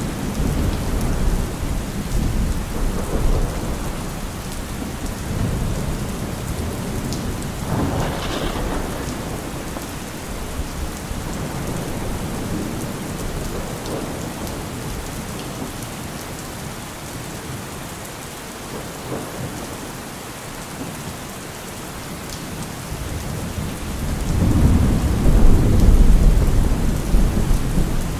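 Heavy rain falling steadily, with thunder rumbling through it. A sharper peal comes about eight seconds in, and the loudest, longest rumble comes near the end.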